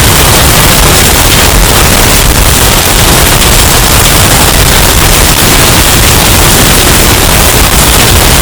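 Hurricane storm sound effect, bass-boosted and overdriven into a steady, clipped wall of distorted noise at full loudness, with no let-up.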